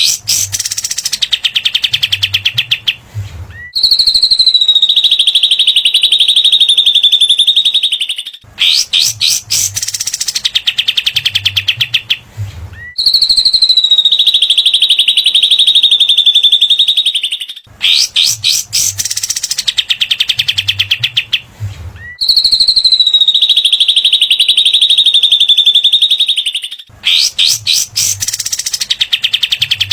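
Looped recording of cililin and katem songbirds. Bursts of rapid, dry rattling chatter (the "besetan" trill) alternate with a long, steady high whistle that dips slightly, and the same pattern repeats about every nine seconds.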